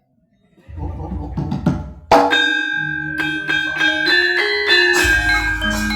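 A Javanese gamelan strikes up after a silence. A few drum strokes come first, then about two seconds in a loud stroke brings in the metallophones, playing a stepping melody of ringing pitched notes.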